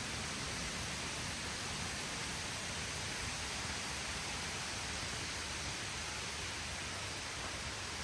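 Steady, even rushing of waterfall water, unchanging throughout.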